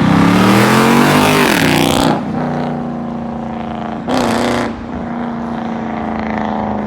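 Car engine revved hard, its pitch rising and then dropping back to a steady idle about two seconds in. A second short, sharp rev comes about four seconds in.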